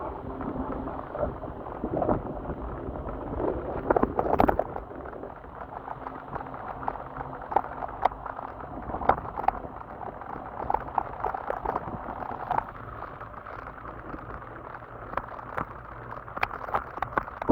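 Wet ride on an electric scooter in the rain: a steady rushing noise with many irregular crackles and pops of water and spray, over a faint low motor hum.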